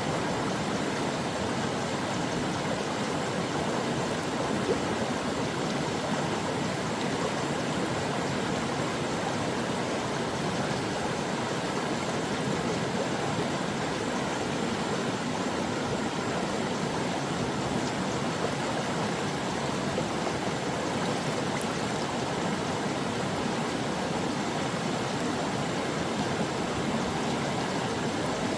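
A stream of water flowing steadily over rocks, a constant rushing and babbling without change.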